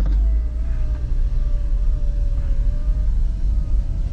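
Inside an all-wheel-drive car's cabin: a heavy, steady low rumble from the engine and road as the car is driven, with a faint steady whine that wavers slightly in pitch.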